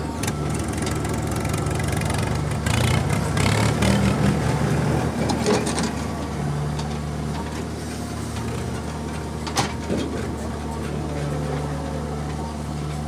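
Diesel engine of heavy loading machinery running steadily, louder with clattering for a few seconds near the start, then settling back, with one sharp knock about ten seconds in.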